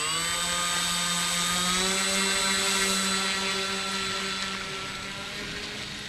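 Electric motor and propeller of an RC FunCub model plane spooling up to full throttle for a takeoff run. It rises quickly to a steady whine, steps up slightly in pitch about two seconds in, then grows a little fainter near the end.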